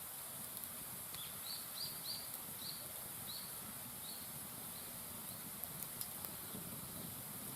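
A bird calling a run of about eight short, high notes, roughly two a second, growing fainter. A few faint sharp crackles from the wood fire come near the end, over a steady hiss.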